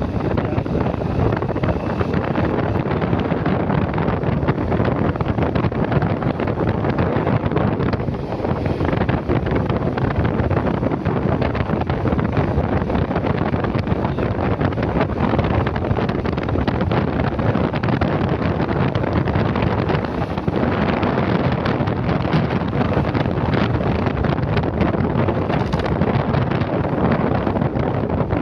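Wind buffeting the microphone of a moving motorcycle, a loud steady rush with the ride's engine and road noise mixed in.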